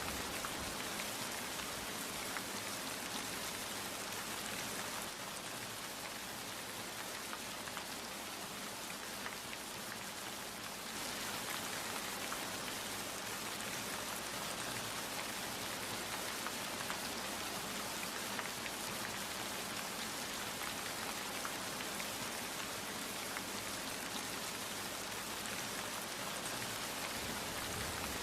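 Steady rain falling, with scattered drops ticking on a surface; it eases slightly for a few seconds about five seconds in.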